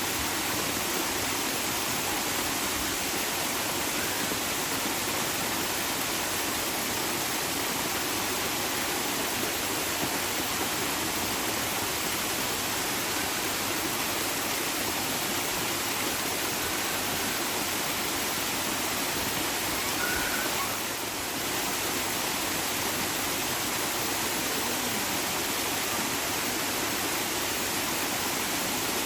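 Running water rushing steadily, a continuous even hiss, dipping briefly about two-thirds of the way through.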